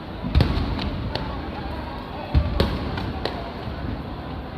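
Aerial fireworks shells bursting: a string of booms and cracks. The loudest come about half a second in and again about two and a half seconds in, over a steady background of noise.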